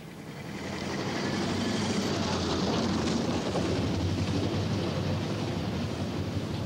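Vintage open-top car's engine running as it drives along a cobbled lane, with a rapid rattling beat. It grows louder over the first second and then holds steady.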